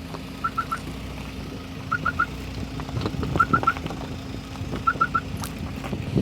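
A short high triple beep, three quick notes at one pitch, repeating about every second and a half, over a steady low hum and outdoor wind noise.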